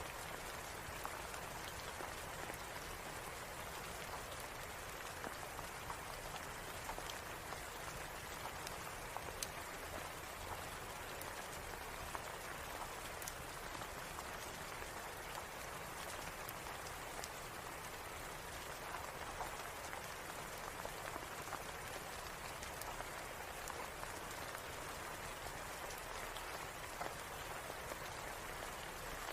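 Steady rain falling, an even hiss with scattered sharp clicks throughout.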